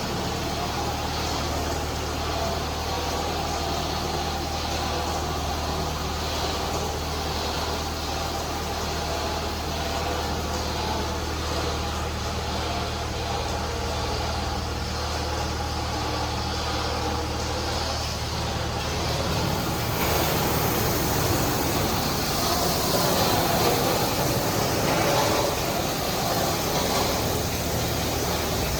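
PDQ ProTouch touchless car wash machinery running: a steady low hum, then, about twenty seconds in, a louder rushing hiss of spray or air joins it.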